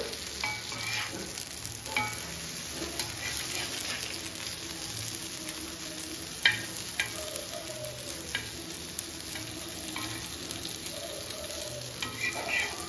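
Taro root pieces sizzling in oil on an iron dosa tawa, with the scrapes and light clicks of a spatula turning them against the pan; one sharper click about halfway through.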